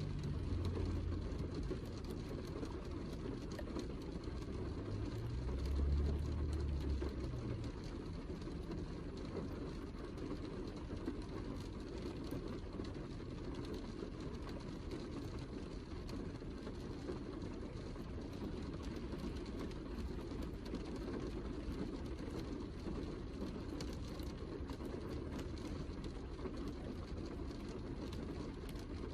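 Heavy rain falling, a steady full hiss with no pattern. Twice, near the start and about six seconds in, a brief low rumble swells under it.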